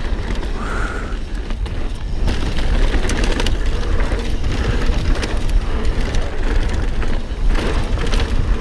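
Mountain bike riding a rough trail: loud, steady wind rushing over the action camera's microphone, with tyre rumble and frequent rattles and knocks from the bike over rocks and roots.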